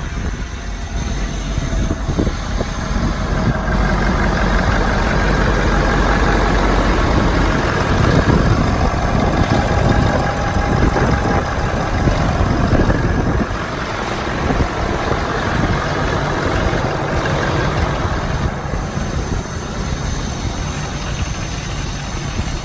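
Lifted pickup truck's engine idling, with a louder-than-stock exhaust note. It gets louder for several seconds in the middle.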